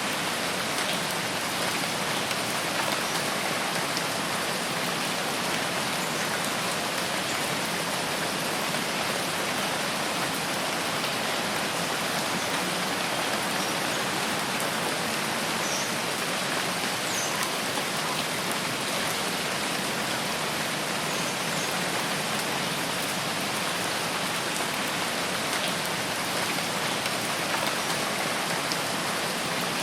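Steady rain falling in a forest, an even hiss with faint scattered drop ticks.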